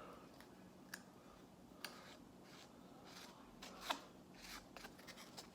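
Faint scraping with a few light clicks, the loudest about four seconds in, as quick-set epoxy is spread onto a half-inch threaded metal rod.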